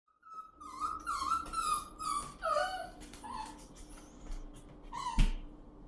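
A 10-week-old Redbone-beagle puppy whining in a string of short high-pitched cries that bend up and down in pitch, with one more cry near the end. A sharp knock a little after five seconds is the loudest sound.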